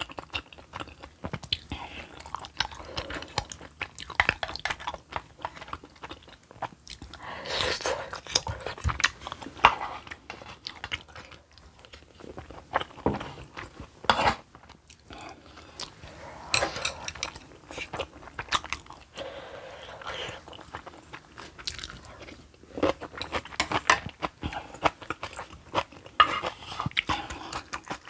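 Close-miked chewing of spicy kimchi stew with pork belly, tofu and sujebi dough flakes, with many small wet clicks. It comes in louder bouts with short lulls between mouthfuls.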